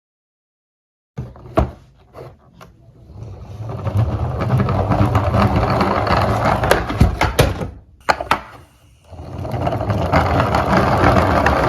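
Diecast toy cars rolling and clattering down a slope: a few sharp clicks about a second in, then a steady rattling rumble that builds over a couple of seconds, breaks off briefly about eight seconds in, and starts up again.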